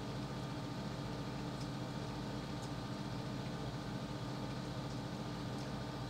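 A steady low background hum with hiss, like a small motor or fan running, with a few faint clicks on top.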